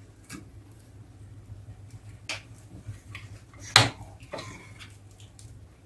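Wood fire in a fireplace crackling: a few scattered sharp pops, the loudest about two-thirds of the way through, over a faint steady low hum.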